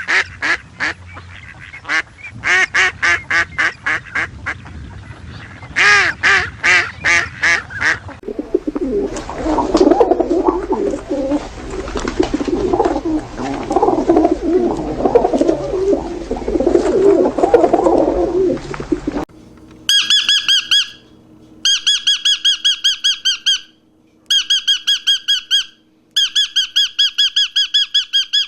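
Birds calling in three stretches: fast runs of repeated calls, then a dense, overlapping flock chorus, and from about two-thirds of the way in, bursts of rapid, high-pitched repeated notes.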